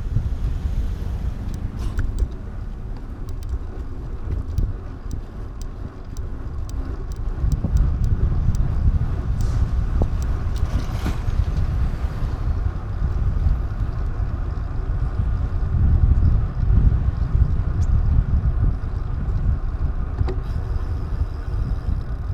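Low rumbling road and wind noise of a ride, surging in level and louder from about a third of the way in, with scattered faint clicks.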